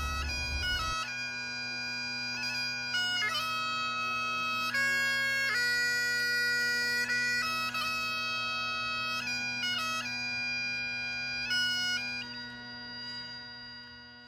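Bagpipes playing a tune, the chanter melody moving over steady, unchanging drones, fading out near the end.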